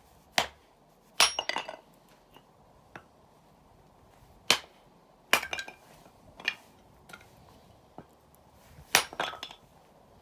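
Wood campfire crackling: loud sharp pops every second or few, several followed by a quick run of smaller crackles, over a steady low hiss.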